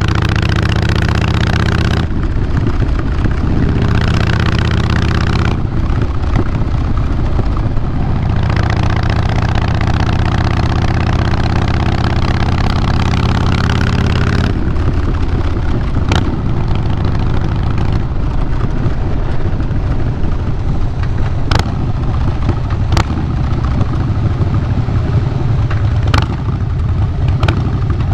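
2012 Harley-Davidson Fat Boy Lo's air-cooled Twin Cam 96B V-twin running through Vance & Hines Big Radius 2-into-2 pipes, its note shifting several times as the throttle changes. A few brief sharp clicks come through in the second half.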